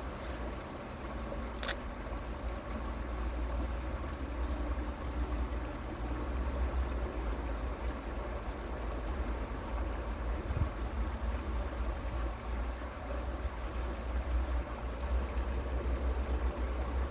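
Creek water running steadily, with a deep low rumble underneath and one short click about two seconds in.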